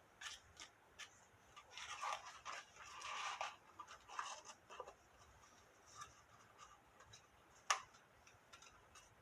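Faint rustling and light taps of cardstock being handled, in short bursts over the first half, with one sharp click near the end.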